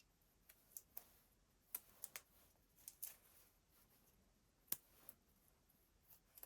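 Faint, scattered clicks and light taps of small hard parts being handled, about a dozen in all, with one sharper click about three-quarters of the way through.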